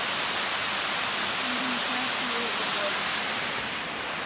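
Steady rushing hiss of a waterfall, dipping slightly near the end.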